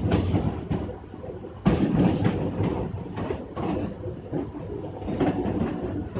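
Mumbai suburban electric local train running, heard from its open doorway: the wheels clatter and knock unevenly over the rails, with a louder clatter a little under two seconds in.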